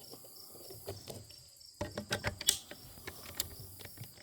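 Bolt-action rifle and its magazine being handled: a run of sharp metallic clicks and clacks starting about two seconds in, as rounds are loaded and the action worked. Crickets chirp steadily behind it.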